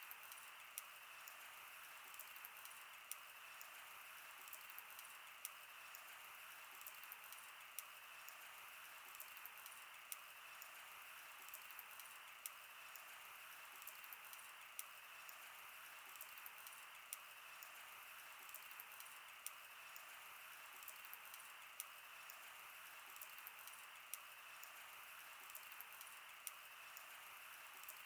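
Wood fire burning with a faint steady hiss and frequent sharp crackles and pops, irregular, a few a second.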